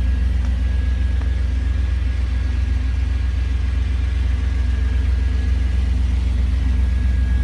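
Chevrolet Camaro IROC-Z V8 engine running steadily at an even idle, a low rumble with no revving.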